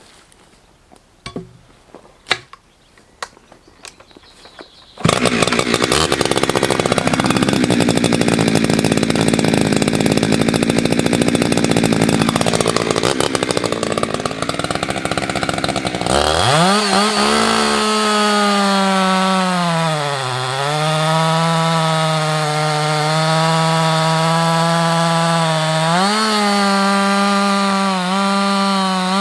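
Husqvarna 365 X-Torq two-stroke chainsaw cutting beech at full throttle, starting suddenly about five seconds in after a few faint knocks. From about sixteen seconds it runs at high revs with a clear engine pitch that dips and recovers, then drops off at the very end.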